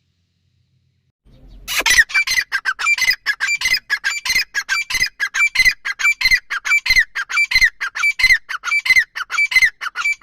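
Francolin (teetar) calling: after a short silence, a loud, fast series of harsh repeated notes, about four a second, keeps going without a break.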